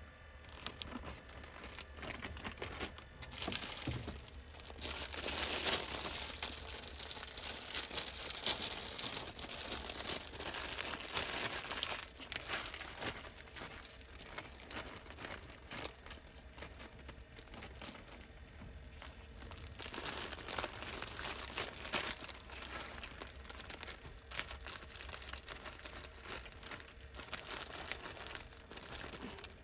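Crinkling and rustling, like plastic or paper packaging being handled, in uneven spells: busiest from about four to twelve seconds in, and again briefly about twenty seconds in.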